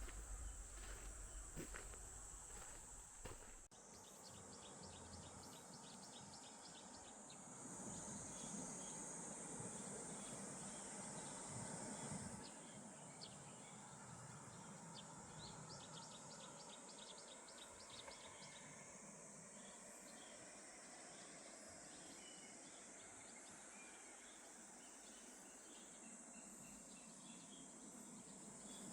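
Faint outdoor insect chorus: a steady high-pitched drone with runs of quick repeated chirps. A low rumble sits under it for the first few seconds and cuts off abruptly.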